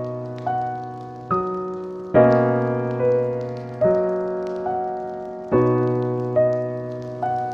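Slow, calm solo piano: single notes and chords struck a little more than once a second, each left to ring and fade. Faint fireplace crackles tick in the background.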